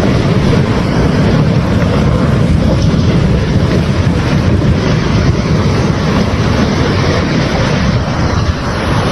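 Loud, steady rumble of a large vehicle, unbroken throughout.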